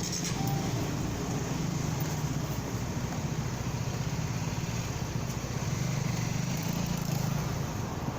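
Motorcycle engine running at a steady pace while riding, with wind and road noise over the microphone.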